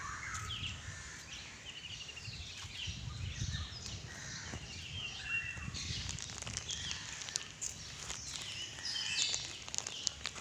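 Several birds chirping and calling over one another, with short trilled calls among them, over a low rumble.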